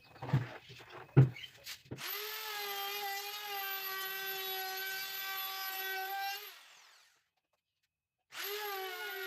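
A few sharp knocks of wood being handled, then a handheld power tool's motor running with a steady whine for about four seconds. It winds down, and near the end the tool starts up again.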